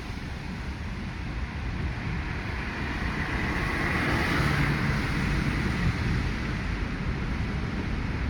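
Steady road and engine noise of a car creeping through traffic on a wet road, a low rumble under a hiss that swells a little about three to five seconds in.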